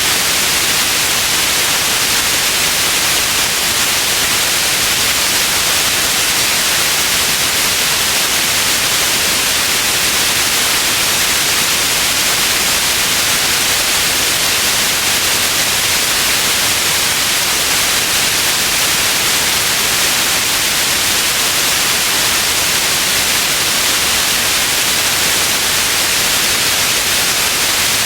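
Continuous white noise: a steady, even hiss, brightest in the upper range, with no changes or events.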